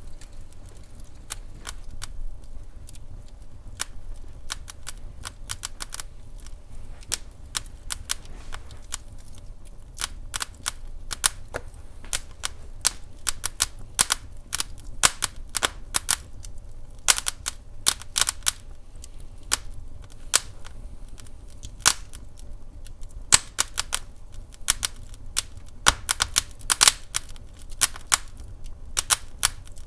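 Wood fire crackling in a fireplace: irregular sharp pops and snaps over a steady low rumble, growing busier and louder after the first ten seconds or so.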